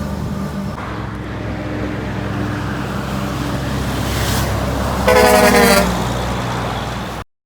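Truck engine running steadily, with one loud horn blast of under a second about five seconds in. The sound cuts off suddenly just before the end.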